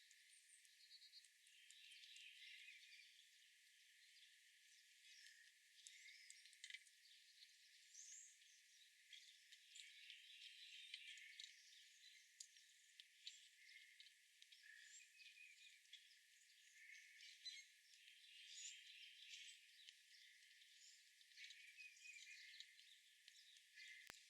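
Faint, irregular chirps and twitters of small birds, mixed with many short clicks. The sound is thin and high, with all the low sound cut away.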